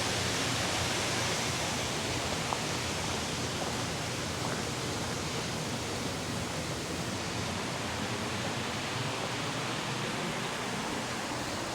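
Waterfall's steady rushing of falling water, with one short tick about two and a half seconds in.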